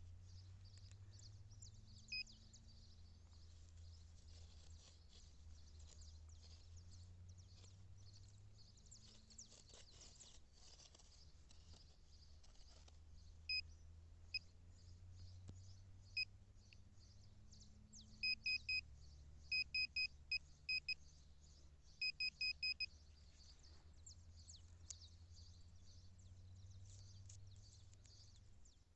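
Nokta Makro Simplex+ metal detector giving short, high target beeps as it sweeps over buried metal. A few single beeps come first, then quick runs of repeated beeps about two-thirds of the way through. A low steady hum and a faint high hiss run behind.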